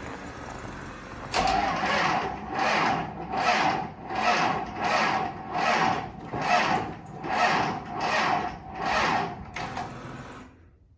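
4BT Cummins four-cylinder diesel being cranked by its starter motor in 0 °F cold, a steady starter whine under slow compression pulses a bit over one a second. It cranks for about nine seconds without firing and then stops: a failed cold start on a single battery.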